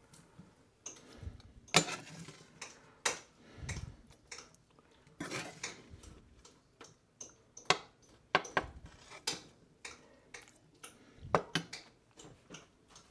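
Serving utensils clinking and scraping against a pan and plates as food is dished up: irregular clicks and taps, a few ringing briefly.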